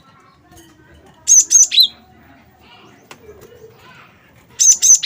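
Cinereous tit (gelatik batu) singing: two short, loud song phrases about three seconds apart, each a couple of quick high whistled notes dropping to a lower note.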